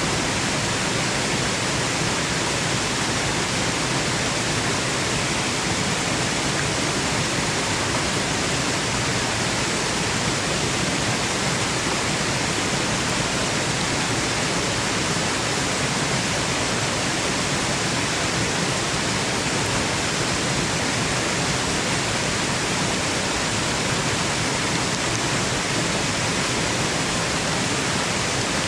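Waterfall rushing in a steady, unbroken roar of falling water, used as white noise for sleep.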